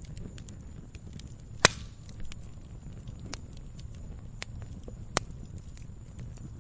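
Wood fire burning with a low steady rumble of flames and irregular crackles, with two loud sharp pops of splitting firewood, one about a second and a half in and one near five seconds.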